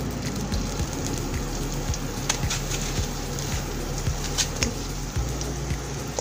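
Sliced onion sizzling in hot oil in a wok, with scattered crackles and pops over a steady low hum.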